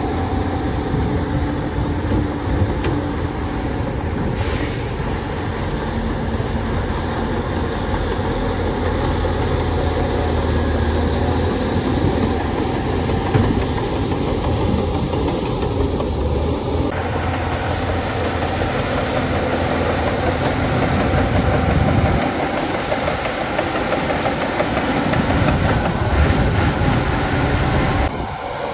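Heavy diesel earthmoving machinery running steadily at work. The mix of the sound shifts abruptly once, about two-thirds of the way through.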